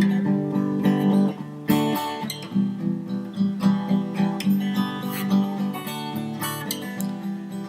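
Background music played on acoustic guitar, a run of plucked and strummed notes.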